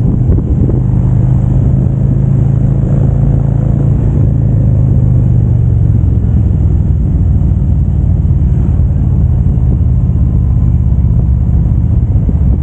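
Harley-Davidson touring motorcycle's V-twin engine running at highway cruising speed, a steady low drone. The engine note is strongest in the first half and eases off a little after about six seconds.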